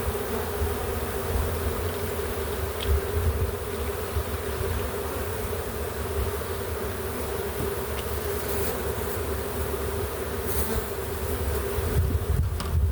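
Honey bee swarm buzzing steadily, a dense, even hum from many bees flying around the hive, over a constant low rumble.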